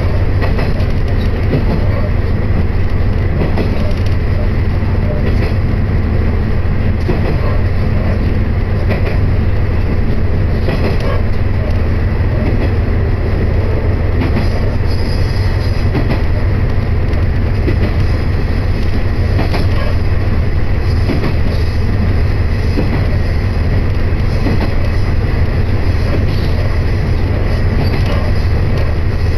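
Steady running noise heard from inside a diesel railcar on the move: a loud, constant low drone of engine and wheels on rail, with a few faint clicks over rail joints.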